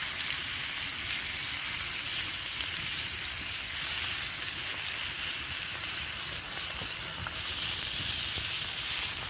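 Bacon, onion and potatoes frying on a grill over a campfire: a steady sizzle with a fine crackle.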